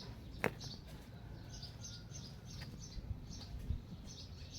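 Small bird chirping: short high chirps repeating irregularly, with a sharp click about half a second in.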